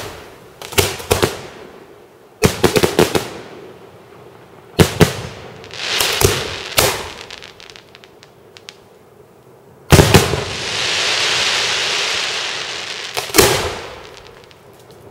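Fireworks display: aerial shells bursting in loud bangs and quick clusters of reports. A sustained hiss of about three seconds runs between the loudest bang, about ten seconds in, and another sharp bang a little over three seconds later.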